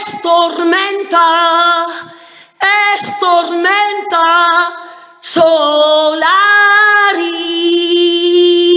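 A woman's voice singing unaccompanied in a high chant: a few short, gliding phrases, then one long held note from about seven seconds in.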